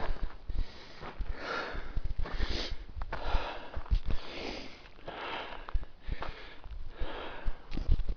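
A hiker's heavy, huffing and puffing breathing, about one breath a second, from the exertion of climbing a very steep slope.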